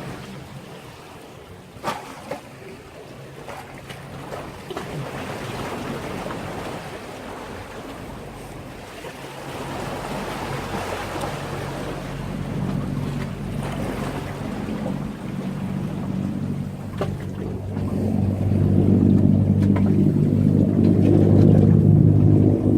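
Sea waves washing against a breakwater. About halfway through, a low, steady boat engine drone comes in and grows louder toward the end.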